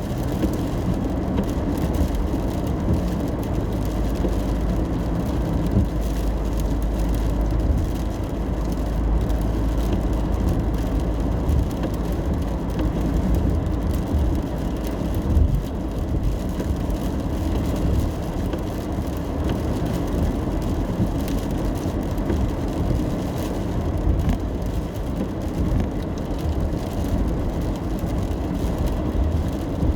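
Steady road and engine noise inside a moving car's cabin while driving in the rain, a low rumble of tyres on wet pavement with faint rain on the car.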